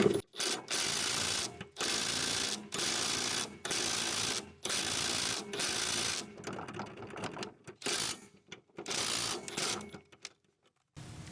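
Socket ratchet wrench clicking on a lawn mower's blade bolt, worked in repeated strokes of about a second each, then more unevenly toward the end.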